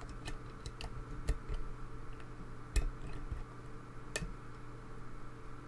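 Scattered small metallic clicks and ticks of a hook pick working the pins of a pin-tumbler lock under tension, about half a dozen in all, the sharpest about a second, nearly three seconds and about four seconds in. A faint steady hum lies underneath.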